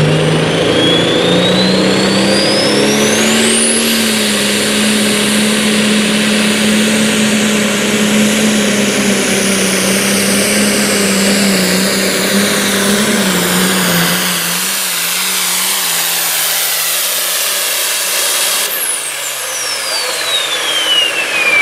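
Turbocharged engine of a pulling truck or tractor at full throttle under load: the turbo whistle rises sharply over the first few seconds to a high scream and holds while the engine runs steady. About three-quarters of the way through the engine tone sags, then the throttle comes off, the turbo whistle falls and the engine winds down.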